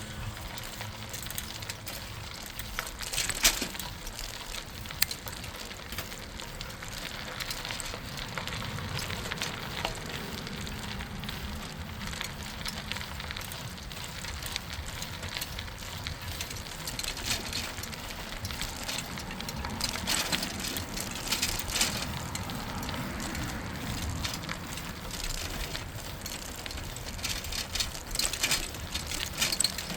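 Bicycle tyres rolling over a rough path surface: a steady crackling crunch, with a few louder crackles early on and louder stretches about two-thirds of the way through and near the end.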